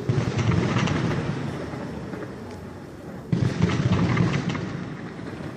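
Fireworks going off: a big burst at the start and another about three seconds in, each followed by crackling and rumbling that dies away over a couple of seconds.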